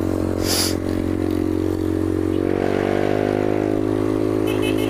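Yamaha Fazer 250 motorcycle engine running steadily under the rider, its pitch rising a little about halfway through. A brief hiss about half a second in.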